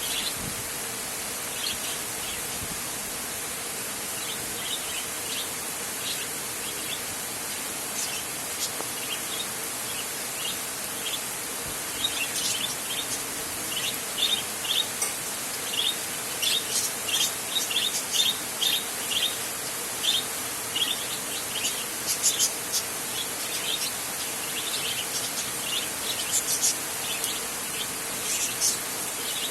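Steady rain hiss on a tin roof, with short high chirps from small animals repeating over it, sparse at first and coming thick and fast in the second half.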